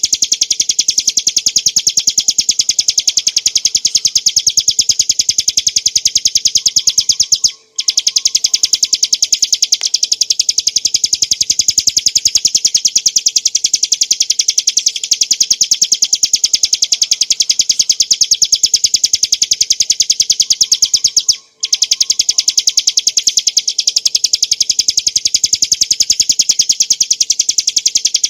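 Ciblek gunung (mountain prinia) singing a fast, unbroken trill of high notes, the rapid continuous 'ngebren' song. It drops out twice for a split second, once about a third of the way in and again about three quarters through.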